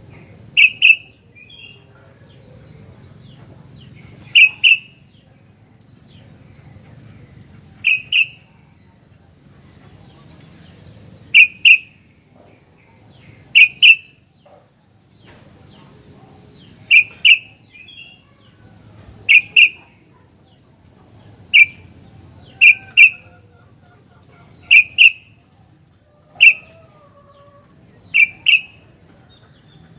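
Sooty-headed bulbul (kutilang) giving short, loud calls, mostly in quick pairs, repeated every two to three seconds.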